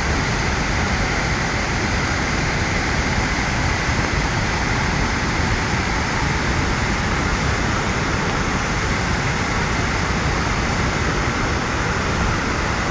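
Loud, steady rush of floodwater, an unbroken roar of noise without a beat.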